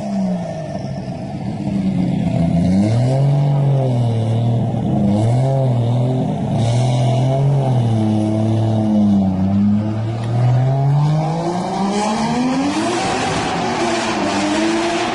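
A car engine revving up and down as it is driven hard, its pitch rising and falling several times with a long climb near the end.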